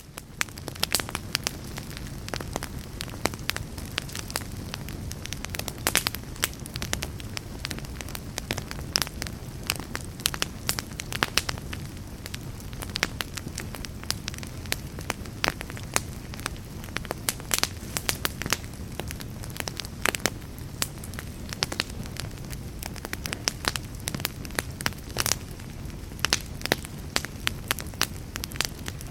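Log fire burning in a fireplace: a steady low rush of flames under frequent, irregular sharp crackles and pops from the burning wood.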